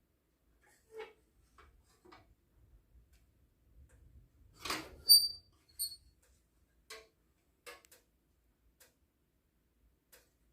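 Scattered light clicks and knocks of objects being handled, with a louder scraping knock about halfway and two short high-pitched pings right after it.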